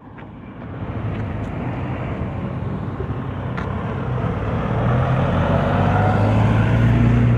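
Electric scooter motor humming very loudly under a steady noise of rolling, and growing louder over the last few seconds.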